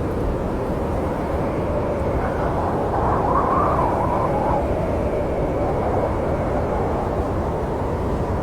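Snowstorm wind blowing in a steady low rumble, with a gust that rises to a higher howl about three seconds in and dies away.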